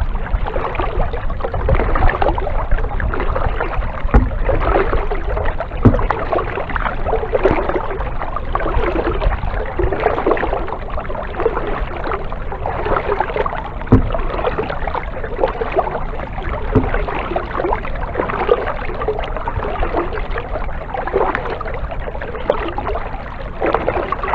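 Kayak paddling: water splashing and dripping off the paddle blades in repeated swells, with a few sharp knocks.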